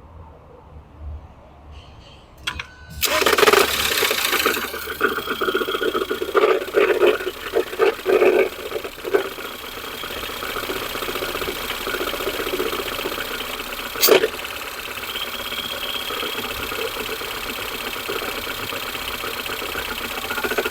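Ford Fusion 2.0 EcoBoost engine starting about three seconds in with a loud, irregular clattering for several seconds, then settling into a steady idle, with one sharp knock later on. The clatter comes from a broken flywheel ring gear, not from inside the engine.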